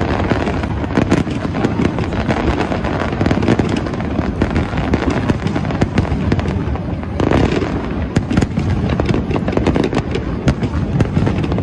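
Fireworks finale barrage: a dense, unbroken run of aerial shell bursts and bangs, many a second.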